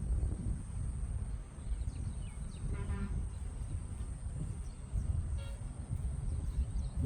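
Outdoor ambience: birds give scattered short chirps and two buzzy calls, about three seconds in and again near five and a half seconds, over a steady low rumble and a constant high hum.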